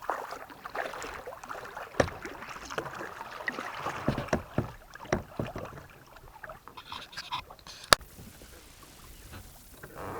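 Kayak paddle strokes splashing in the water, uneven and repeated, with two sharp knocks, one about two seconds in and one near the end.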